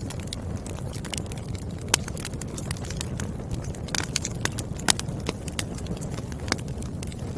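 Firewood burning in a fireplace: a steady low rumble of flames with irregular crackles and sharp pops, the loudest about two seconds in and again near five seconds.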